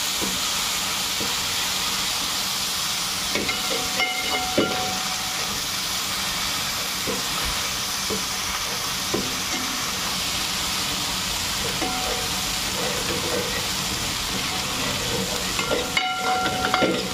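Ginger-garlic paste and browned onions sizzling steadily in hot oil and ghee in a large aluminium handi, being fried until the paste loses its raw taste. A metal ladle stirs and scrapes, clinking against the pot with a brief ring about four seconds in and a few times near the end.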